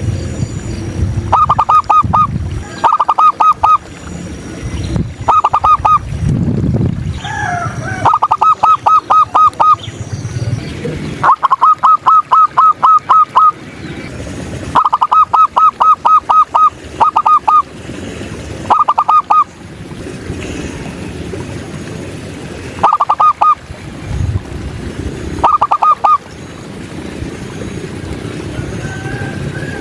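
Zebra dove (perkutut) calling: loud bursts of rapid staccato cooing notes, about five to ten quick notes per burst, repeated every few seconds. Another bird gives a brief gliding call about seven seconds in.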